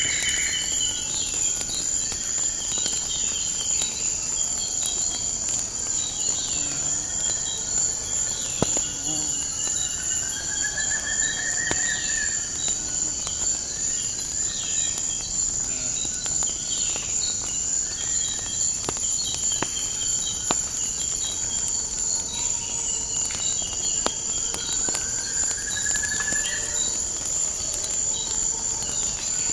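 Steady high-pitched trilling of crickets or similar insects, with birds chirping over it, among them two longer sweeping calls about ten and twenty-five seconds in, and scattered sharp pops of a crackling wood fire.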